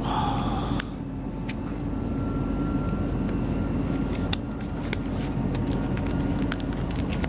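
Inside a South Western Railway Class 458 electric multiple unit running between stations: a steady low rumble of the train in motion, with a few sharp clicks and a faint high whine for a couple of seconds midway.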